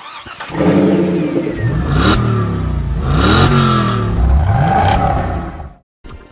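Car engine sound effect revving up three times, each rev rising in pitch with a rushing hiss, then cutting off suddenly near the end.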